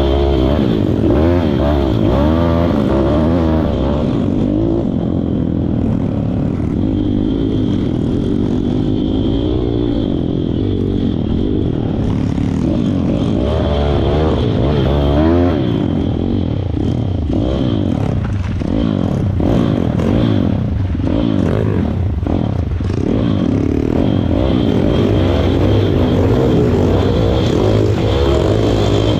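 Pit bike's small single-cylinder four-stroke engine revving up and down as it is ridden over rough ground, with knocks and rattles from the bike.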